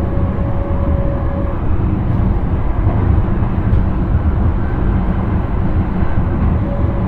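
Intercity train running on the line, heard from inside the driver's cab: a steady, loud rumble of wheels on rail. A faint steady tone fades out about one and a half seconds in and comes back near the end.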